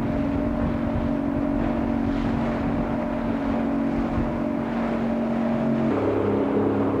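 Motorboat engine running steadily, its note shifting lower about six seconds in.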